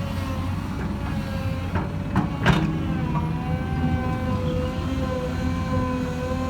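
Hyundai Robex 220-9SH excavator running under load: a steady diesel rumble with a hydraulic whine, and a few sharp knocks around two seconds in.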